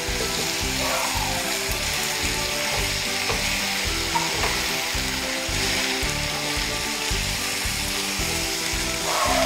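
Spiny gourd pieces and dried sprats sizzling steadily in oil in a hot pan while being stirred with a wooden spoon.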